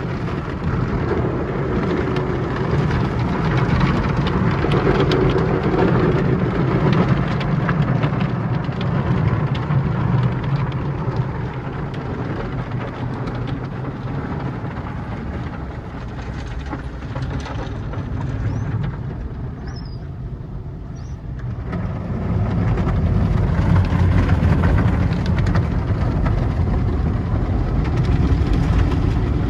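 Tunnel car wash equipment working over a car, heard from the car: a steady wash of mechanical and spraying noise over a low rumble. It drops briefly about twenty seconds in, then comes back louder.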